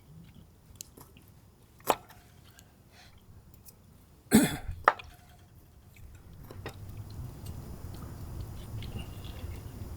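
Close-up eating sounds: chewing with a few sharp clicks, the loudest cluster about four seconds in, then a low steady background noise that comes up from about six seconds in.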